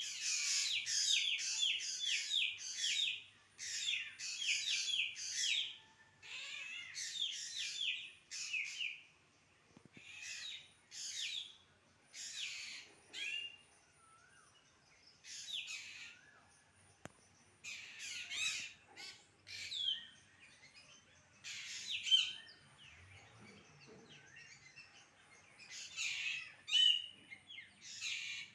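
Birds calling in repeated bursts of high chirps and squawks, some phrases made of quick runs of notes, with short pauses between them.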